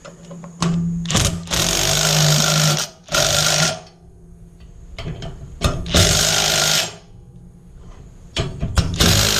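Impact driver with a socket adapter run in about five short bursts, each a second or two long, driving a nut onto a bolt with a lock washer.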